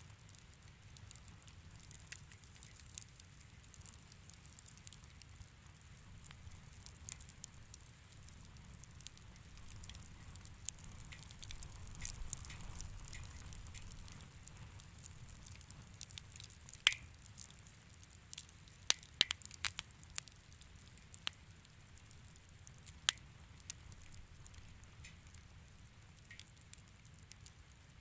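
Wood fire in a fireplace crackling, with scattered sharp pops that come thickest about two-thirds of the way through, over a faint low rumble.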